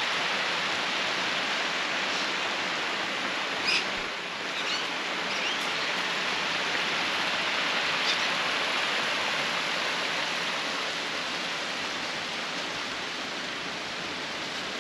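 Creek water running, a steady even rush with a few faint short sounds on top.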